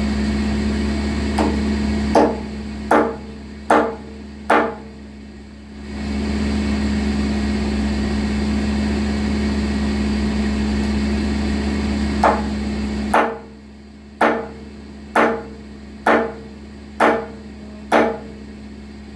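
A run of sharp, hammer-like blows, each with a short ring, over the steady drone of a running engine. There are about five blows in the first few seconds, then seven at about one a second in the second half.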